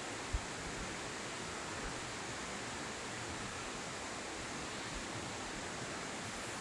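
Steady rushing outdoor noise, even and unbroken, with a single low thump just after the start.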